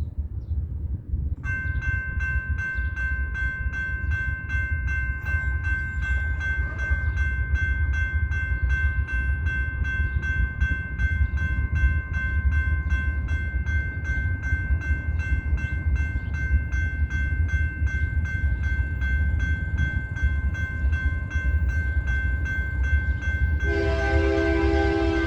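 Grade-crossing warning bell starts ringing about a second and a half in, a steady high ring with regular ticks, over a low rumble. Near the end a BNSF freight locomotive's horn sounds a chord on top.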